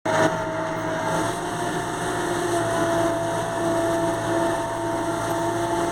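Steady hiss of heavy rain, with a steady engine-like hum and a few held tones beneath it.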